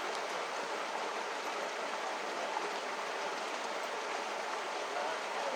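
A steady, even rushing noise with no rhythm or tone.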